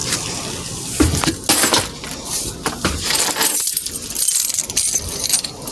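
Light clinking and rattling of small hard objects being handled, a run of sharp irregular ticks and clatters.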